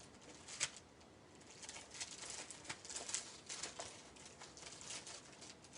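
Soft, irregular clicks and light rustling of small embellishment sheets and their plastic packaging being handled and sorted on a craft table.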